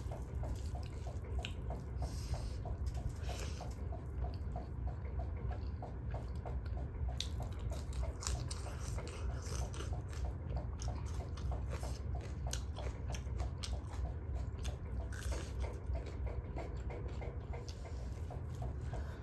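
Close-up eating sounds: wet chewing, lip smacking and occasional crunchy bites, over a steady low hum.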